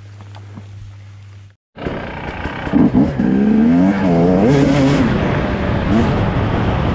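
Dirt bike engine revving up and down under load as it is ridden, loud and rising and falling in pitch, starting after a brief cut to silence nearly two seconds in. Before the cut there is a low steady hum.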